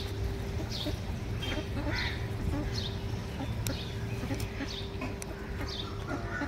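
A bird calling over and over, short falling notes about every three-quarters of a second, over a steady low hum and rumble.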